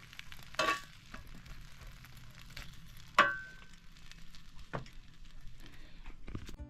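Food sizzling in a cast iron pot set in a Weber barbecue, with a few sharp clinks as it is stirred, the loudest about three seconds in.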